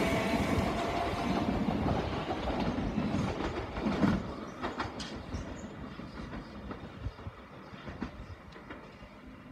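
Southern Class 377 Electrostar electric multiple unit accelerating away, its motor whine dying out in the first second or so. Its running rumble and wheels clicking over rail joints then fade into the distance, with one louder knock about four seconds in.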